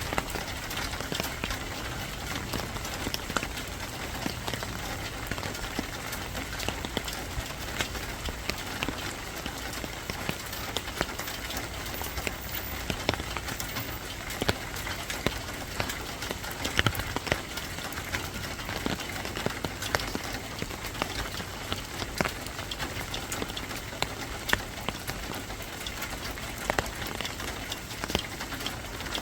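Steady rain, with many individual drops tapping sharply on a hard surface.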